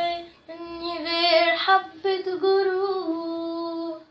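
A female voice singing an Egyptian Arabic song unaccompanied, with long held notes. It breaks off briefly near the start and stops just before the end.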